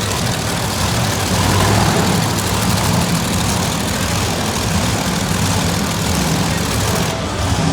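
Monster truck engine running loud and steady during a wheelie run, over a dense wash of arena noise.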